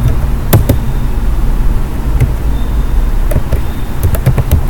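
Loud steady low-pitched background rumble, with a few short sharp clicks scattered through it.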